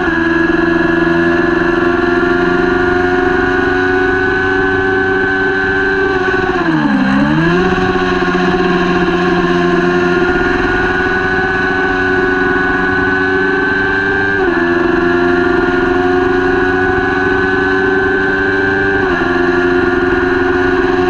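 Kawasaki Ninja 400 parallel-twin race engine at high revs under a steady rush of noise. Its pitch climbs slowly, dips sharply about seven seconds in as the throttle is rolled off and comes straight back up, then drops in two steps later on as it is shifted up a gear.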